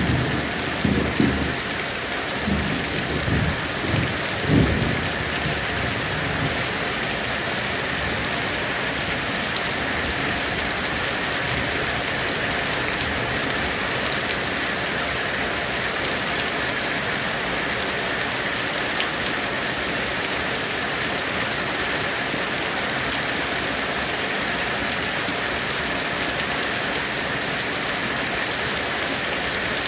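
Heavy rain falling steadily, with a rumble of thunder in the first few seconds that dies away.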